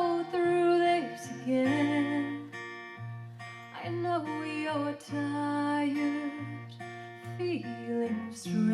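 Acoustic guitar played live in a slow song accompaniment, with held notes over changing bass notes.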